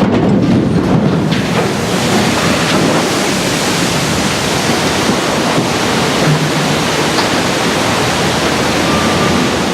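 Loud, steady rush of surging water, like a newly launched ship's hull ploughing into the sea and throwing up waves.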